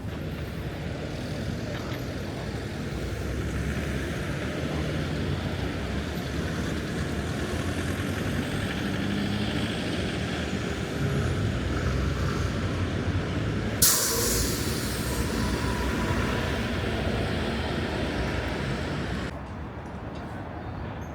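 Night city traffic: vehicle engines and tyres running steadily on a wide boulevard. About two-thirds of the way in, a sudden loud hiss of air, like a bus or truck's air brakes, runs for several seconds before the whole sound drops off abruptly.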